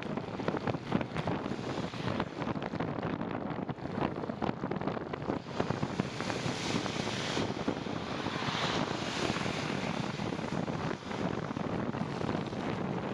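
Bicycle riding on a wet trail: wind rushing over the microphone and tyres hissing on the wet surface, with many small knocks and rattles; the hiss swells for a few seconds in the middle.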